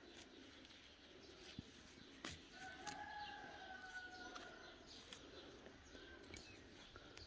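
Near silence with faint outdoor background. About three seconds in comes a faint, drawn-out bird call lasting under two seconds, with a few faint clicks scattered through.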